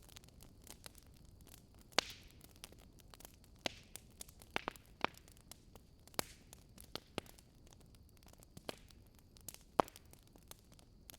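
Wood fire crackling in a fireplace: irregular sharp pops and snaps, with a louder pop about two seconds in and another near the end, over a faint steady low background noise.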